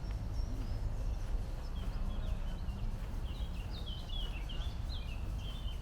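A songbird singing a run of quick, twittering chirps that start about a second and a half in and go on to the end, over a steady low background rumble.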